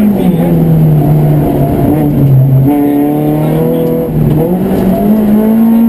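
Citroën Saxo rally car engine heard from inside the cabin, working hard through a stage. The revs fall right at the start as the throttle lifts, jump up again a little before three seconds in, dip once more about four seconds in, then climb back and hold high under acceleration.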